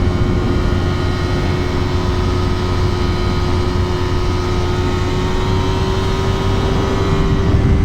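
Yamaha R3's 321 cc parallel-twin engine running at steady revs while riding, its pitch holding level, with wind rush underneath.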